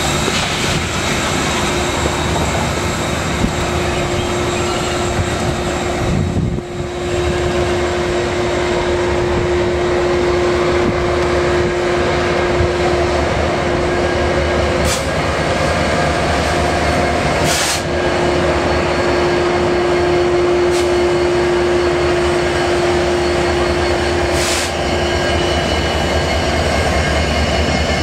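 A long train rolling past: the tender of Union Pacific's Big Boy 4014 steam locomotive, followed by trailing diesel locomotives and passenger cars, with their running and their wheels on the rails making a steady noise. A held hum runs under it for much of the time, and a few sharp clicks come in the second half.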